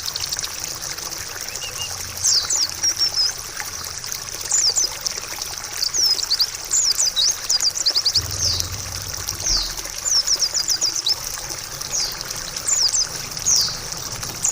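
Trickling water with a white-eye (pleci) singing over it in short bursts of rapid, high chirps, again and again.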